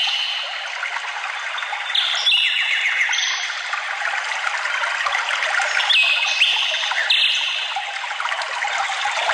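Forest stream trickling steadily, with songbirds singing clear whistled phrases over it, notes stepping up and down in pitch, about two and three seconds in and again around six to seven seconds.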